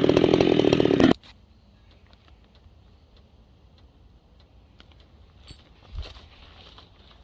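Husqvarna 390XP two-stroke chainsaw running hard on a replacement carburetor, then cutting off abruptly about a second in. Afterwards only faint scattered clicks and a soft thump about six seconds in.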